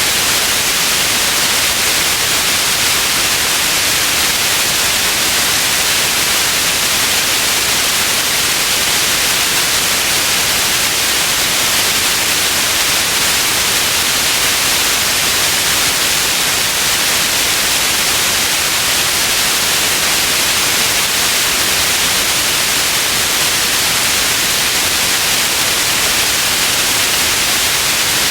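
Steady white noise: an even, unchanging hiss, brightest in the upper range, with no breaks or changes.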